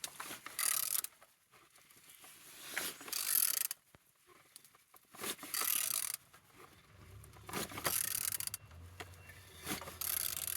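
A used engine being turned over by hand at the crankshaft, mechanical rasping in about five separate strokes roughly two seconds apart. The engine turns over well.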